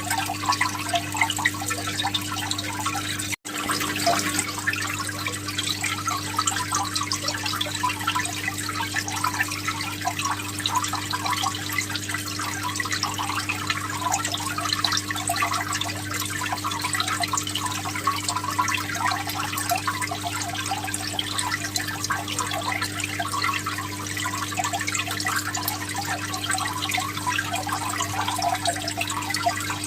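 Water trickling and bubbling steadily over a constant low hum, cutting out for an instant a little over three seconds in.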